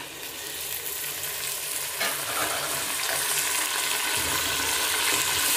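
Chopped tomatoes and green chillies just tipped into hot oil, sizzling and growing louder, while a spatula stirs them around the metal pot.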